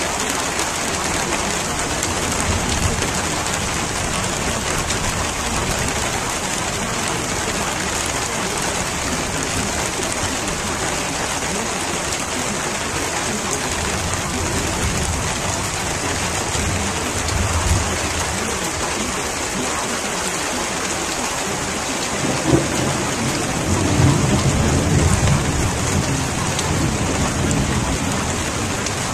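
Steady heavy rain, with low rumbles of thunder a few times; the strongest rumble comes about three quarters of the way through.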